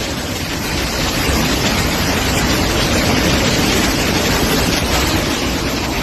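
Steady loud rush of storm wind and rain, with the wind buffeting the microphone.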